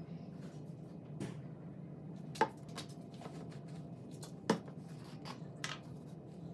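Light clicks and knocks of hand work at a workbench, the two sharpest about two and a half and four and a half seconds in, over a steady low hum.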